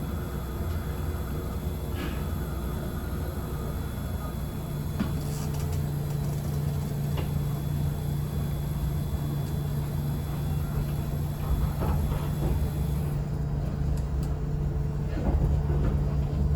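Local electric train running along the track, heard from inside the car: a steady low rumble of wheels and running gear, joined about four and a half seconds in by a steady low motor hum, with a few light clicks.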